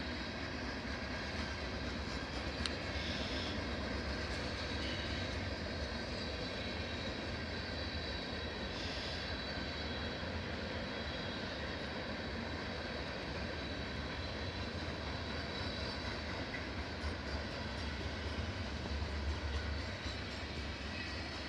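Freight train rolling past, a steady rumble and rush of its cars on the rails.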